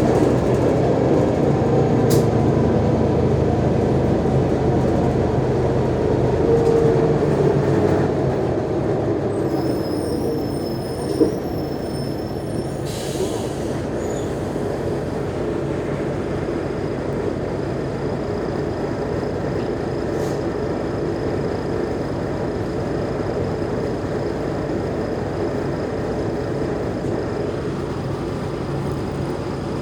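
Mercedes-Benz O345G articulated bus's diesel engine pulling under load for about the first eight seconds, then dropping back to a lower steady running noise. A thin high squeal sounds around ten seconds in, and a brief hiss of air follows a couple of seconds later.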